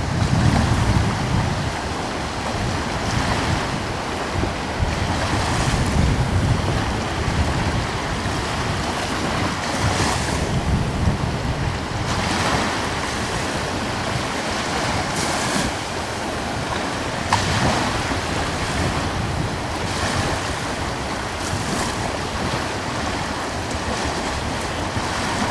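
Small ocean waves breaking and washing ashore in a soft rhythm, a swell every few seconds, with a light coastal breeze rumbling on the microphone.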